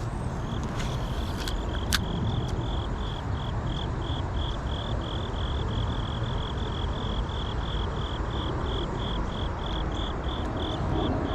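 An insect chirping steadily at a high pitch, about three chirps a second, over a low rumbling noise, with a sharp click about two seconds in.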